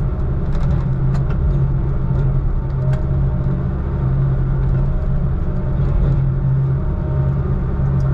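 Heavy diesel truck engine running steadily under way, a deep even drone with road rumble, heard from inside the cab.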